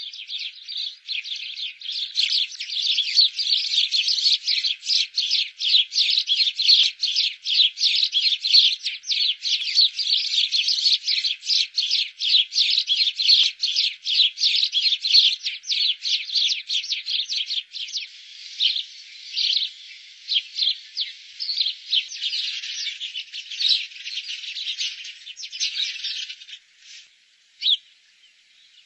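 Small birds chirping, many short high notes in quick succession, thinning out into separate chirps in the last few seconds.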